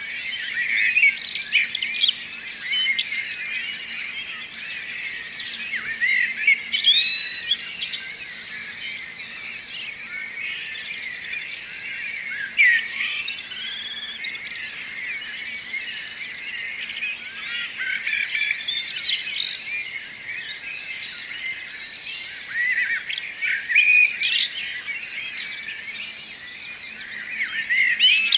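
Morning chorus of many songbirds singing at once, overlapping chirps and trills, with a louder phrase standing out every few seconds.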